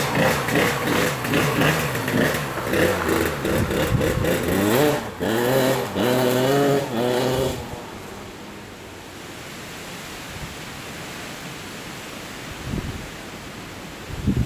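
Honda CR80 two-stroke single-cylinder engine in an ATC70 trike, revving up and down in blips with the pitch climbing toward the end of the run. It cuts out abruptly about halfway through, leaving only faint background hiss.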